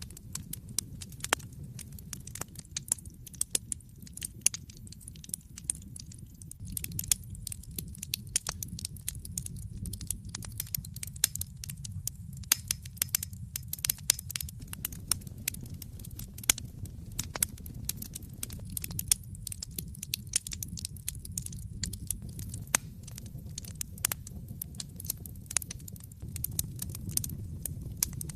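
Wood fire burning in an open fireplace: a low steady rumble of flames under frequent sharp, irregular crackles and pops of burning logs.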